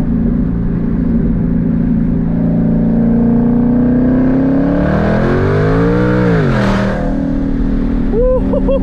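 Twin-turbo Mustang engine running through open exhaust dumps on a fifth-gear pull: the engine note climbs steadily for several seconds, then drops quickly as the throttle is lifted. A few short chirps follow near the end.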